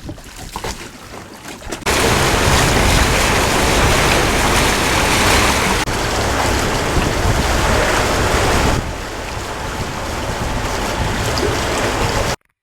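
Wind buffeting the microphone and water rushing past a boat under way, a loud, steady rush that jumps up suddenly about two seconds in and cuts off abruptly near the end.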